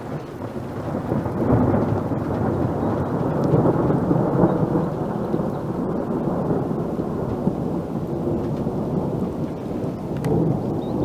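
Thunder rolling from a nearby thunderstorm: a long, low rumble that swells over the first couple of seconds and eases a little toward the end.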